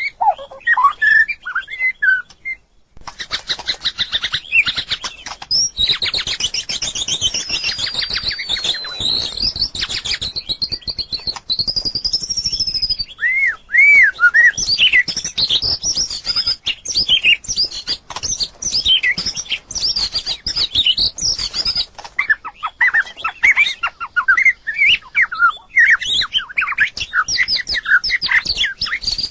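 White-rumped shama singing a varied run of clear whistled notes, slurs and glides. For a long stretch in the first part, a dense rapid clicking runs beneath the song.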